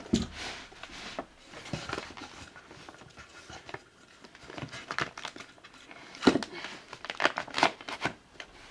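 Pine tongue-and-groove boards being handled and fitted: a run of irregular knocks and scraping rubs of wood, the loudest knocks about six to eight seconds in.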